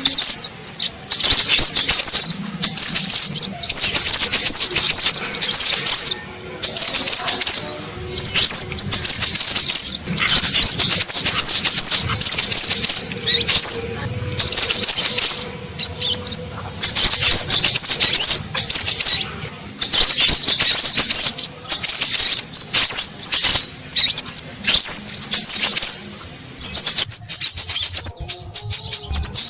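Scarlet minivets (sepah raja) calling excitedly, as used in a lure recording: rapid, high-pitched chirps packed into phrases of a second or two, with short pauses between them.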